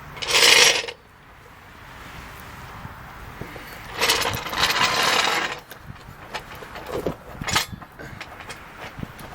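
Metal scraping and clinking of a floor jack being worked under a car: a short harsh scrape about half a second in, a longer one around four to five seconds in, then a few light clicks.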